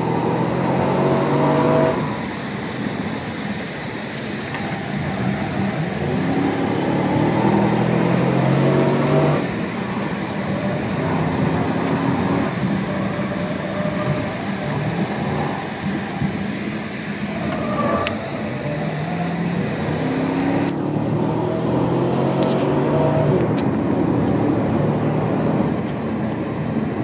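Chevrolet Camaro's engine heard from inside the cabin, pulling up through the revs and easing off several times over a constant road noise.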